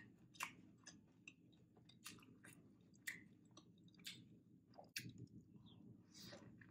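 Faint mouth clicks and wet smacks of a person chewing a soft paneer tikka beetroot wrap, irregular and spaced about a second apart, with a bite into the wrap near the end.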